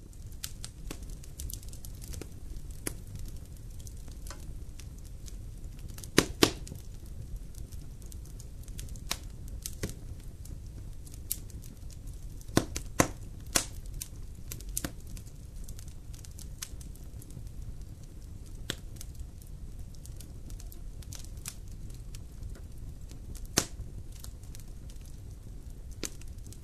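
Campfire crackling: wood burning with irregular sharp pops and snaps, the loudest about six, thirteen and twenty-four seconds in, over a steady low rumble.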